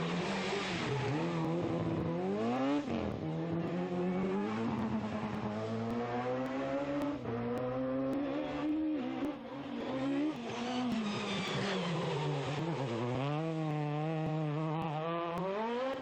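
Turbocharged rally car engine driven hard, revving up and falling back through gear changes and lifts, with repeated rising sweeps in pitch.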